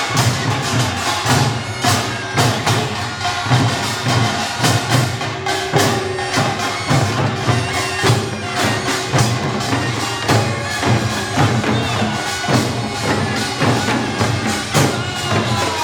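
Korean pungmul ensemble playing: a fast, steady beat of drums and gongs with the reedy melody of a taepyeongso shawm over it.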